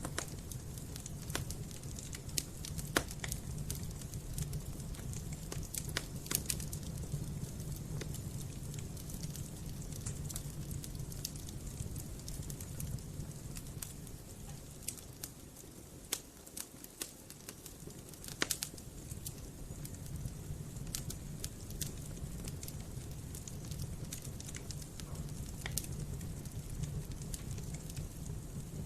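Campfire burning, the wood crackling and popping in irregular sharp snaps over a low steady rumble.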